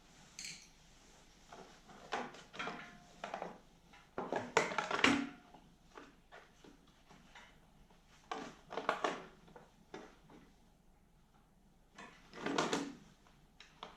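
Intermittent clicks, knocks and clatters of tools and small parts being handled while a snowblower's carburetor is worked on, in several short bursts with quiet gaps between them. The loudest clatter comes a little before the middle.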